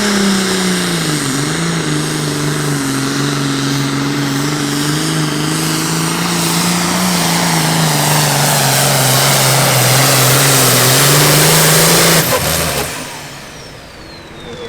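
Super Farm pulling tractor's turbocharged diesel engine at full throttle, its pitch sagging under the sled's load and then holding with small wavers. It cuts off suddenly about twelve seconds in, leaving a high turbo whistle gliding down as it spools down.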